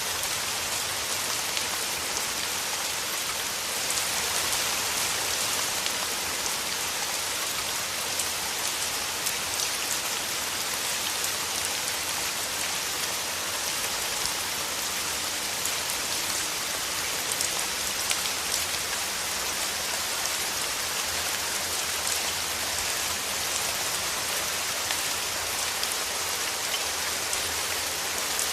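Steady rain falling through forest trees, a dense even patter of drops on leaves with faint scattered individual drips.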